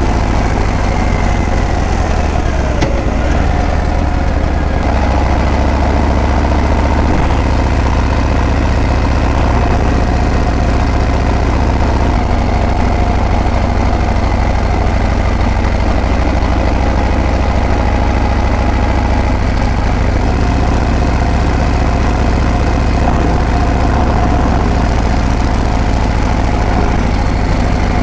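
Harley-Davidson Breakout's V-twin engine and exhaust running steadily, a deep, even engine sound with small shifts in engine speed.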